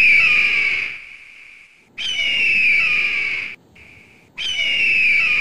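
Peacock calling: three loud, drawn-out wailing calls about a second and a half long, each starting high and sliding slightly down in pitch.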